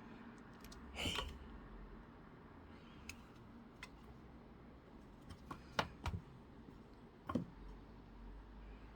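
A few faint, scattered light clicks and taps, about six spread over several seconds, with a soft brief sound about a second in.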